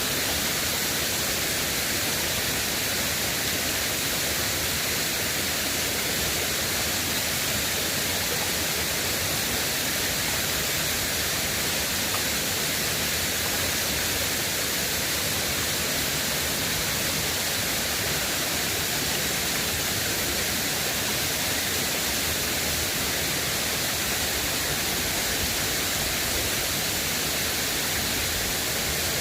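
River water rushing steadily, an even, unbroken hiss with no changes.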